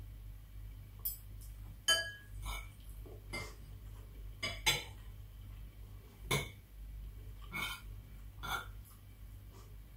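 Metal spoon clinking and scraping on a plate of fried rice as it is scooped up to eat, in irregular short taps about once a second, with a low steady hum behind.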